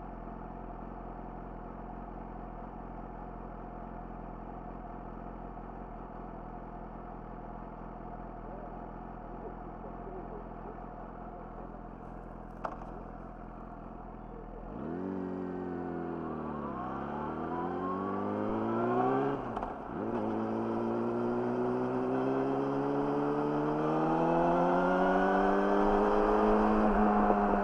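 Yamaha YZF-R6's inline-four through an Akrapovic slip-on exhaust idling steadily, then pulling away about 15 seconds in. The revs climb, break briefly at a gear change about 20 seconds in, and climb again, getting louder.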